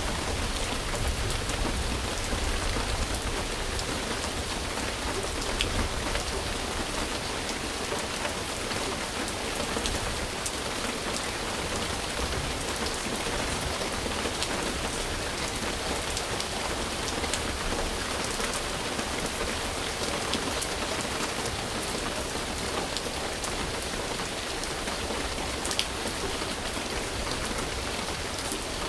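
Steady rain falling on a surface, an even hiss with scattered sharp drop ticks. A low rumble underneath in the first several seconds fades away.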